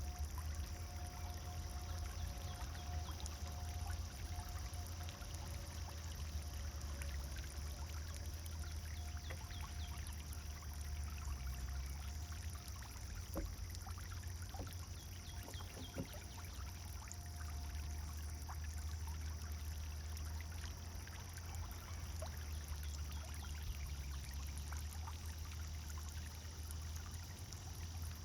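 Pond fountain's water splashing and pouring steadily.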